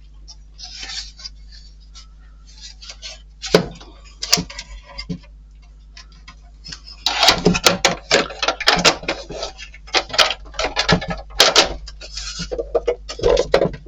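Small model-kit parts being handled at a workbench: scattered clicks and taps, then a dense run of clicking, tapping and rattling from about halfway through.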